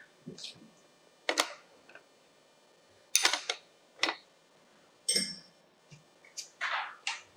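Irregular short, sharp clicks and knocks, about seven in all: hand tools and parts being handled during e-bike assembly.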